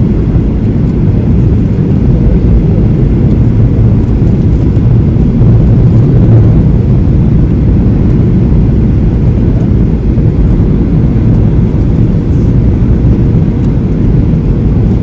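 Steady low rumble of a Boeing 737-800's CFM56 engines and rushing air heard inside the passenger cabin during the landing.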